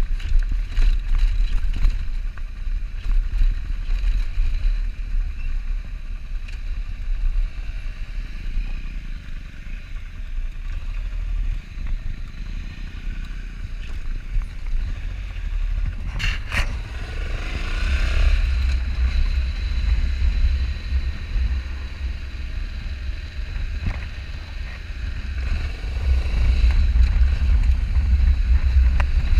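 Motorcycle running on the move, its sound buried in heavy wind buffeting on the camera's microphone, with a sharp click about halfway through.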